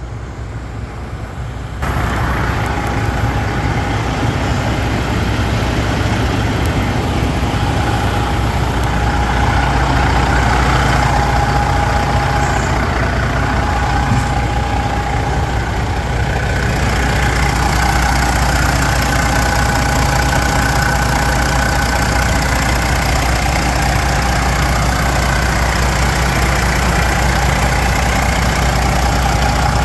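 Detroit Diesel Series 60 12.7-litre inline-six diesel idling steadily, with a thin steady whine over the low rumble. The engine exhausts through a straight stack with no aftertreatment. It gets louder about two seconds in.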